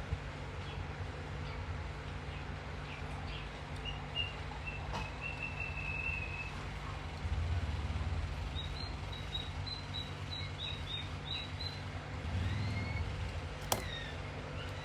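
Small birds chirping in quick runs of short high notes over a steady low rumble and hum, with one sharp click near the end.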